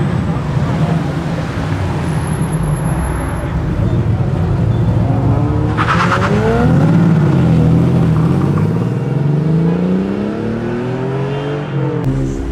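A car's engine revving and accelerating away, its pitch rising and falling several times through the second half.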